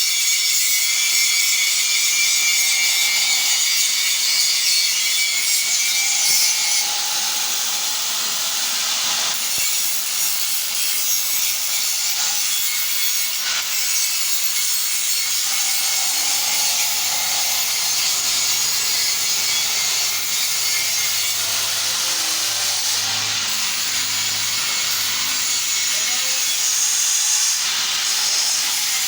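Metalworking tool noise: a steady, harsh hiss, with a faint high whine for the first six seconds or so.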